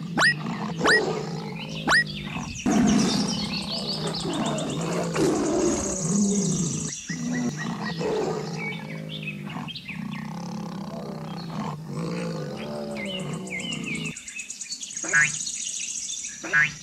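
Tiger roaring and growling sound effects over background music, with a few short high squeaks in the first two seconds and again near the end.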